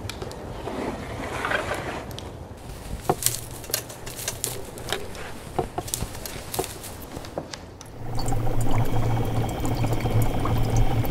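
Sound-designed effects of liquid pouring into glassware, with scattered small clicks and knocks. About eight seconds in, a louder steady low hum with a high ringing layer takes over.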